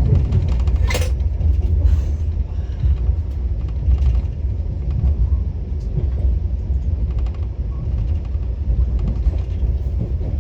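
Steady low rumble of the Vande Bharat Express running, heard from inside the coach, with a sharp click about a second in and a few fainter knocks.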